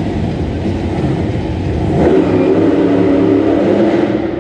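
Monster truck engine revving hard, rising in pitch and getting louder about two seconds in.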